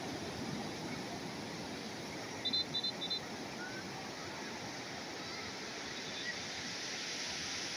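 Calm sea waves washing steadily onto the shore. About two and a half seconds in come three short high chirps in quick succession.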